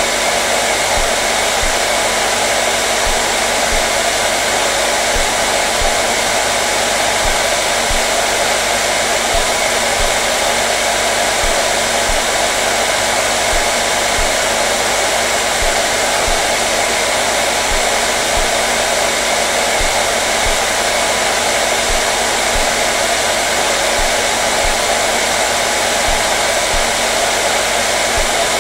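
Hair dryer running steadily: a constant rush of air with a low, steady motor hum beneath it.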